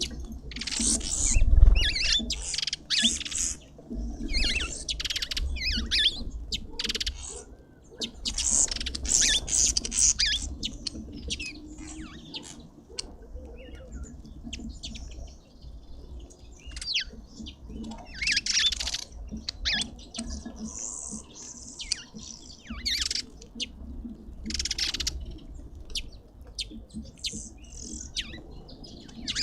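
Several garden birds at a feeder chirping and calling in quick clusters of short, high notes, with brief pauses between the clusters.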